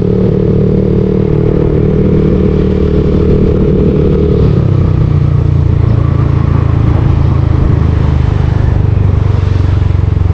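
Yamaha Aerox V2 scooter's single-cylinder engine running through a JVT V3 aftermarket exhaust while riding, heard from the rider's camera. The engine note steadies, then its pitch and tone shift about four and a half seconds in.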